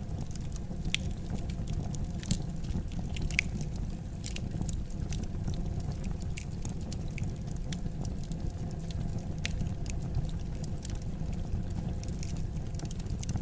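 Fire burning in a fireplace: a steady low rumble with irregular crackles and pops.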